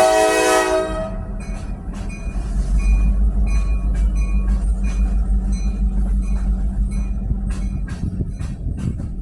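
Freight train's diesel locomotive horn sounding and cutting off about a second in, then the train rolling past: a steady low rumble with sharp clicks and short high wheel squeals.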